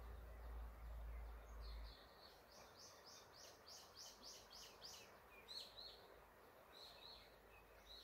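Forest birds singing: a quick run of about a dozen high repeated notes that grows louder, then a few separate high calls, over the soft steady rush of the river. A low rumble stops about two seconds in.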